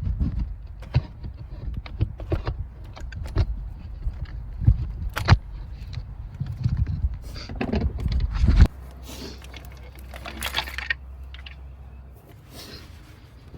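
Metal tools and parts clinking and rattling in hand work on an engine, with scattered knocks over a low rumble that stops abruptly about nine seconds in.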